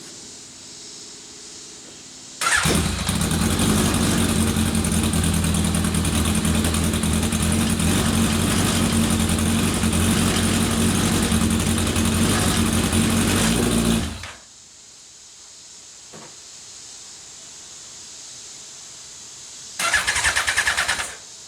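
Legends car's carbureted engine starting up and running steadily for about eleven seconds, then cutting out suddenly; near the end it fires again for only about a second. It will not keep running without throttle input, which the owner suspects is due to a misadjusted throttle stop on the carburetors.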